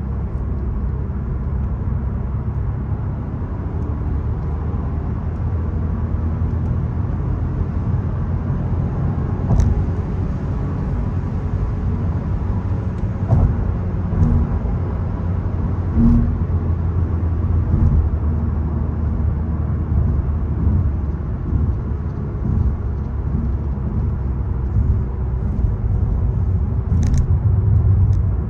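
VW Golf 1.0 TSI's three-cylinder turbo petrol engine and road noise as the car is driven: a steady low rumble, with a few brief clicks along the way.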